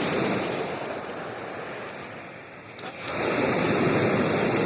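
Black Sea surf breaking in a small storm. One wave's wash fades over the first two seconds or so, then another wave breaks about three seconds in.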